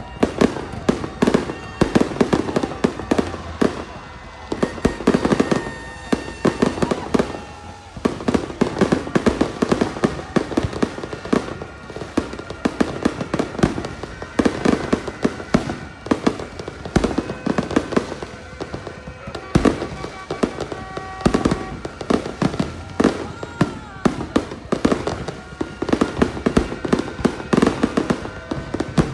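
Fireworks going off in a rapid, continuous barrage of bangs and crackles, with party music and voices underneath.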